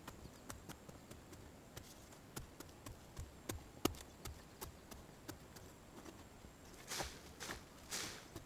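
Irregular light taps and clicks, like sticks or twigs being handled or stepped on, with two short rustling swishes near the end.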